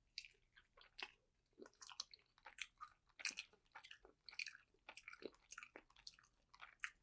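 Quiet chewing of a dumpling: wet mouth clicks and smacks, several a second.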